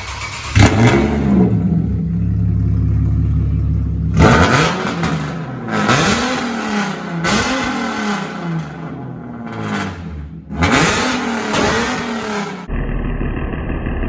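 Nissan 370Z's 3.7-litre V6 through a straight pipe with the muffler removed and no catalytic converters, revved: a sharp rev under a second in that holds steady, then several quick blips, each rising and falling. Near the end it cuts to a duller, steady engine sound.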